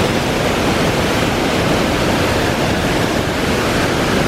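Banias Waterfall's water crashing down steadily, a loud even rush heard up close.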